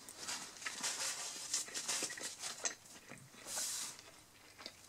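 A man chewing a mouthful of burger: a run of soft, irregular mouth clicks, with a short hiss about three and a half seconds in.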